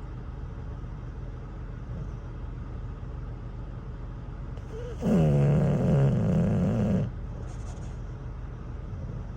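English bulldog snoring while asleep: one long, loud snore about five seconds in, lasting about two seconds, with a softer breath just before it. Under it runs a steady low rumble.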